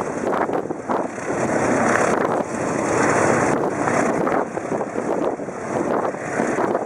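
Wind buffeting the microphone: a loud rushing noise that swells and drops in gusts, with brief dips.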